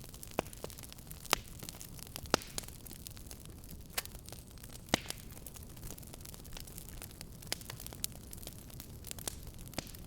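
Fireplace fire crackling: sharp pops and snaps, several loud ones in the first half, over a steady low rumble of burning.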